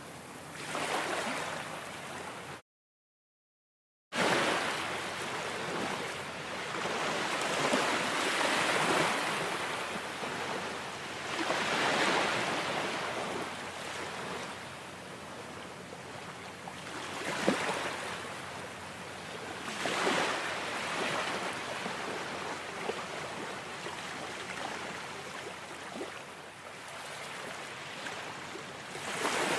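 Ocean surf washing ashore, swelling and falling back every few seconds. The sound cuts out completely for about a second and a half near the start.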